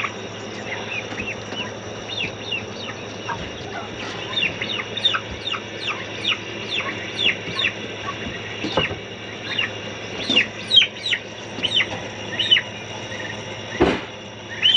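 Poultry calling: a run of short, high, falling chirps, about two a second, getting louder and more frequent toward the end. A couple of sharp knocks stand out, the loudest near the end.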